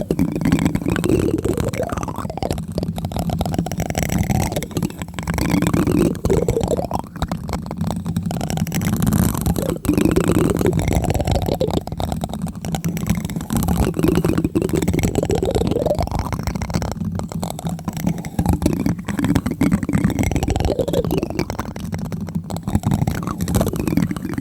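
Plastic spoon tapping rapidly on a microphone, close up, in a dense run of soft, low taps.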